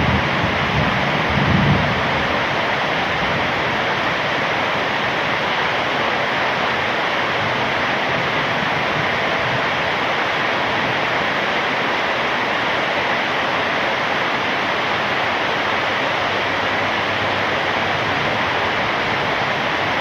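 Heavy rain falling steadily, a dense even hiss, with a brief low swell in the first couple of seconds.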